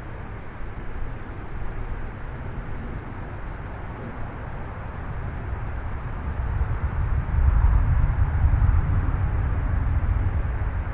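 Thunderstorm wind gusting and buffeting the microphone as a deep rumbling rush over the hiss of rain, swelling to its loudest gust about seven seconds in.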